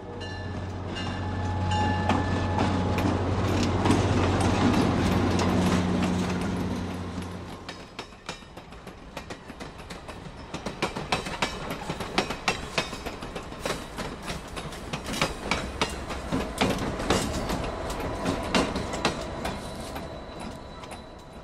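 A diesel passenger locomotive passes close by, its engine drone building and then fading over the first several seconds. The passenger coaches follow, rolling by with a rapid clickety-clack of wheels over the rail joints.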